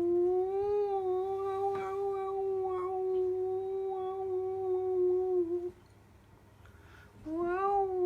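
A person imitating a cat's meow with one long drawn-out call, held at a steady pitch for about five seconds and cut off, then a second call that rises and falls near the end.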